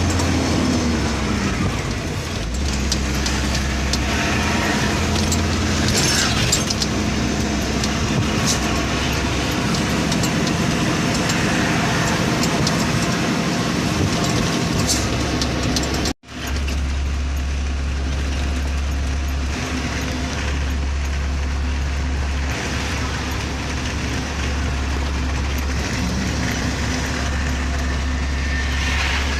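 Truck running on the road: a steady low engine drone with road noise over it. It drops out for a moment about halfway through, then resumes.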